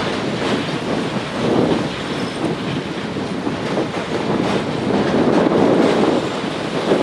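Container train's wagons rolling across a girder bridge: a steady rumble with wheel clatter over the rail joints, swelling slightly twice.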